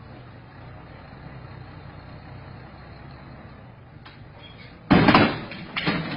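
Low steady rumble of a dump truck idling while it tips its load. About five seconds in, a sudden loud crash with a series of heavy knocks as the loaded truck topples over onto its side after its tipping hydraulics give way.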